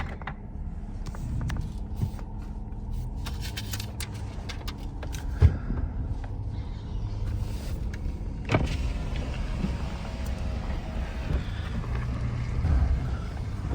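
Pickup truck driving, heard from inside the cab: a steady low engine and road rumble, with a short knock about five and a half seconds in and a sharp click a few seconds later.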